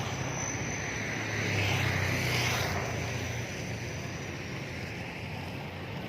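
A motor vehicle passing: its engine noise swells to its loudest about two seconds in, then fades into steady background rumble.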